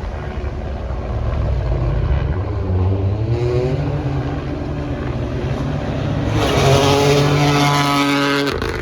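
Rally car engine under hard acceleration, its note climbing in pitch about three seconds in, then passing close and loudest over the last few seconds before it cuts off abruptly.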